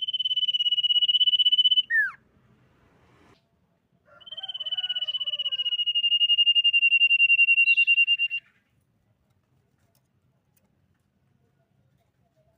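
Common iora whistling: a long, steady, high whistle of about two seconds ends in a short note sliding down in pitch. After a short pause comes a second, longer whistle of about four seconds that sags slightly in pitch, with faint lower twittering under its start.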